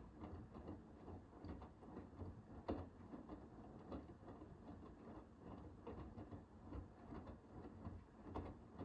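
Hoover H-WASH 500 front-loading washing machine in its wash phase: wet laundry tumbling in the turning drum, heard as faint, irregular soft thumps and clicks over a low rumble, with one louder knock a few seconds in.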